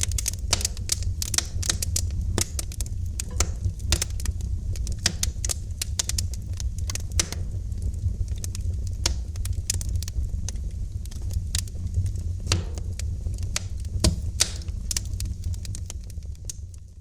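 Wood fire crackling in a fireplace: irregular sharp pops and snaps, several a second, over a steady low rumble of the flames. The sound starts to fade right at the end.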